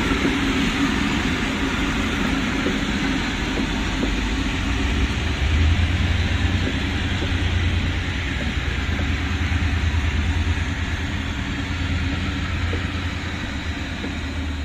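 Passenger train moving on the rails, a steady loud rumble of wheels and running gear that eases slightly near the end.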